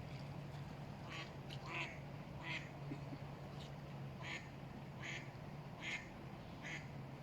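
A duck quacking: a series of about eight short quacks, roughly one every 0.8 seconds, starting about a second in, over a steady low hum.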